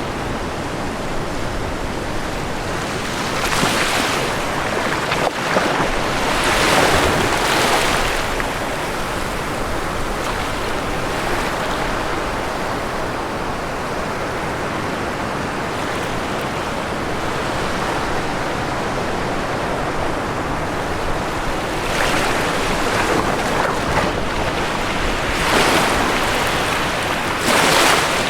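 Ocean waves breaking on a shore over a steady wash of surf, with several swells rising and falling: two a few seconds in and three more in the last quarter.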